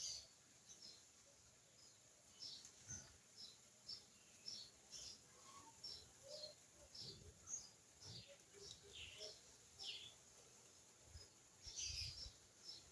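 Faint, short, high-pitched bird chirps repeated over and over, roughly one or two a second, with a few soft low thumps.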